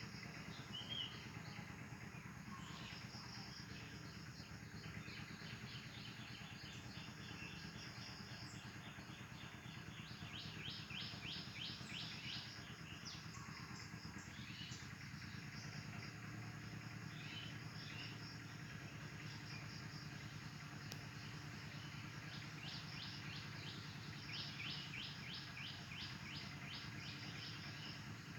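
Small birds chirping over steady low background noise, with two runs of fast, chattering chirps: one about ten seconds in and one near the end.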